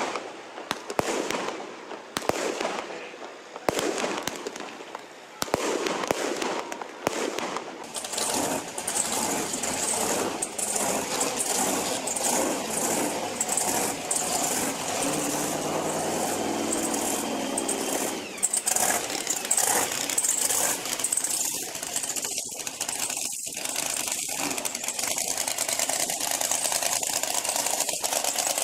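Fireworks crackling and popping for the first several seconds. Then a monster truck engine runs loud and steady, revving up about halfway through.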